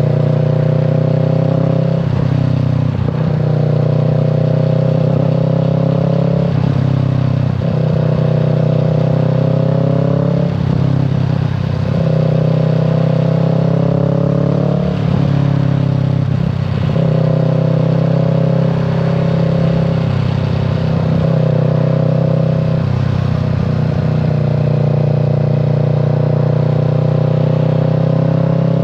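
Kawasaki Z650 parallel-twin engine and exhaust under way, the pitch climbing for a few seconds and then dropping at each gear change, about six times.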